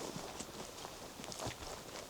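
Footsteps walking along a forest path, with faint bird chirps.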